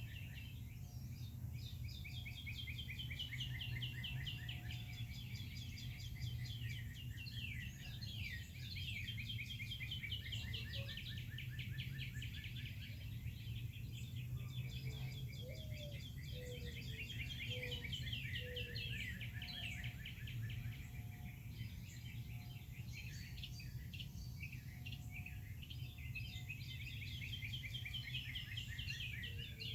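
Several songbirds singing together in fast, overlapping trills and chirps, over a steady low background hum. A short run of four lower notes comes about halfway through.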